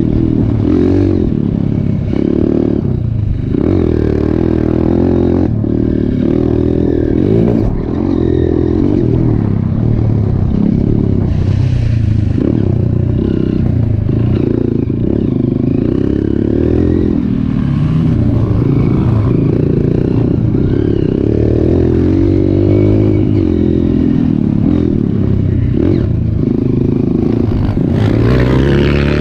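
Trail motorcycle engines running loud and revving up and down as they ride, with clattering over rough ground.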